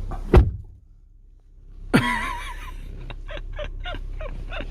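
A single heavy thump, after which the background noise drops away. Then a drawn-out, wavering vocal groan and quick, rhythmic bursts of breathy laughter.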